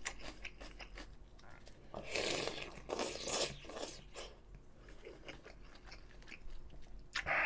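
Close-up mouth sounds of crunchy chewing on a raw green cucumber pepper (oi-gochu) dipped in ssamjang. About two seconds in, a loud slurp of soup broth from a spoon lasts over a second, and then the chewing goes on more softly.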